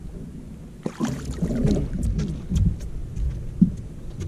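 Handling noises while a hooked channel catfish is brought aboard a small boat: a jumble of knocks and clicks that starts suddenly about a second in, over a low steady rumble of wind and water.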